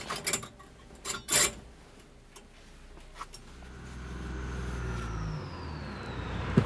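Narrow-gauge train approaching: a few sharp knocks, then a low engine rumble that builds over a few seconds, with a faint high whine falling in pitch.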